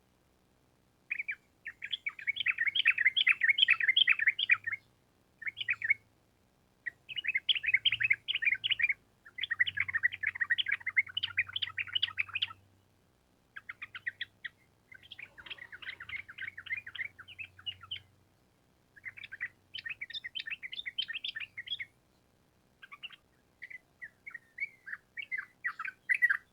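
Yellow-vented bulbul (trucukan) singing a run of rapid, chattering trilled phrases, each a second or a few seconds long, with short pauses between them; the phrases are softer in the middle stretch.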